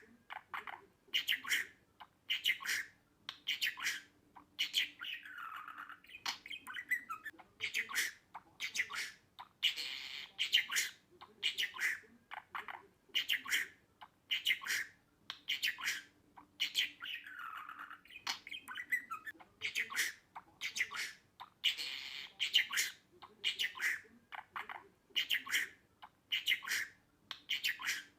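Budgerigar chirping and squawking in a steady run of short, high calls, about two a second, some of them falling in pitch.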